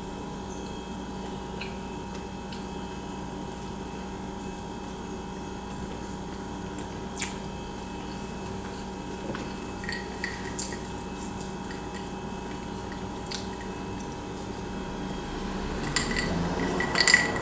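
Chewing a mouthful of corn dog, with a few faint wet mouth clicks over a steady low hum. Near the end, iced water is sipped through a straw, with ice clinking in the glass, and this is the loudest part.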